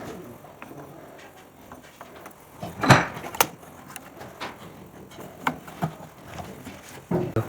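A handful of scattered knocks and taps, the loudest about three seconds in, with a few smaller ones after it and a short cluster near the end.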